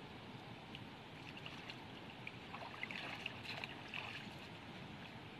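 Water trickling and sloshing, with a cluster of small splashes about three to four seconds in.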